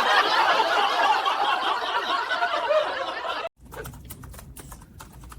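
A dense burst of laughter, like a laugh track, for about three and a half seconds, cutting off abruptly; then faint clicking of computer keyboard typing.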